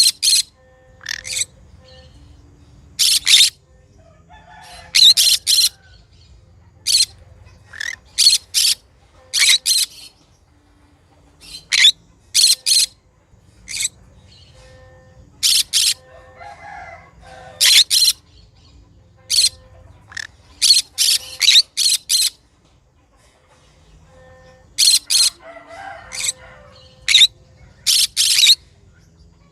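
Conure giving short, sharp, high-pitched calls, mostly in quick pairs or triplets, repeated every second or two, with some softer, lower chattering between them.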